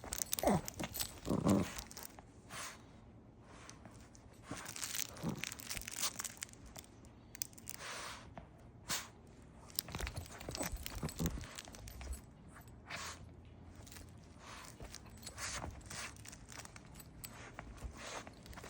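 Puppy chewing a crunch toy, the toy crackling and crinkling in irregular bursts, with a couple of short growls in the first two seconds.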